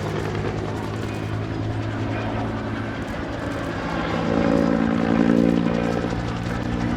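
AH-1S Cobra helicopter in flight, its two-bladed main rotor and turboshaft engine running steadily, growing louder about four seconds in and easing off again near the end.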